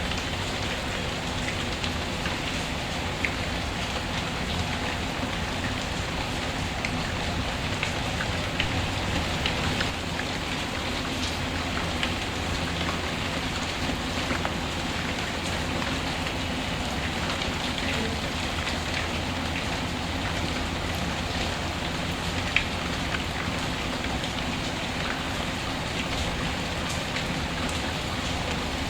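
Steady rain pattering, with occasional sharp pops and crackles of a wood fire in a fireplace; the loudest pop comes about three-quarters of the way through.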